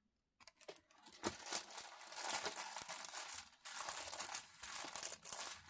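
Plastic crinkling and rustling as a diamond painting canvas and its plastic wrapping are handled. It starts about half a second in and carries many small crackles throughout.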